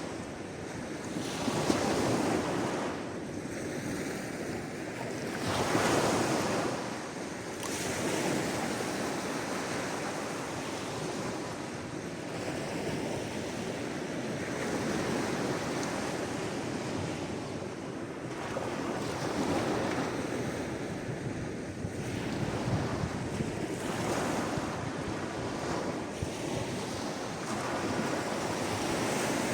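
Sea waves washing against the shore, a steady wash of surf that swells and ebbs, with the loudest surges about two and six seconds in.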